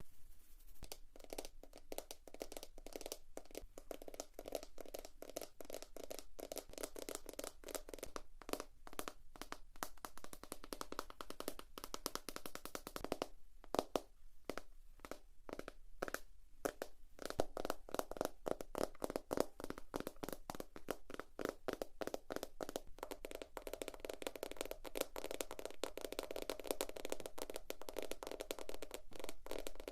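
Fast, continuous tapping of fingers on notebook covers, a quick run of sharp taps with a brief pause about halfway through.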